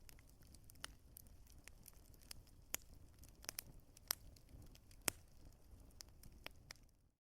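Wood fire burning in a fireplace: irregular sharp crackles and pops from the burning wood over a low, steady rumble of the flames. The sound fades out for a moment at the very end.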